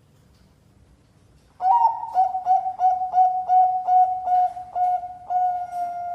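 Zebra dove (perkutut) of the Bangkok song strain cooing: after a short quiet gap, a fast run of about ten short, clear, flute-like notes, ending in one longer held note.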